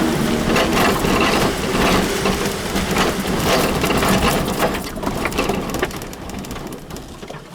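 Vehicle running over a rough track, its engine hum overlaid with constant rattling and knocking, getting quieter over the last couple of seconds.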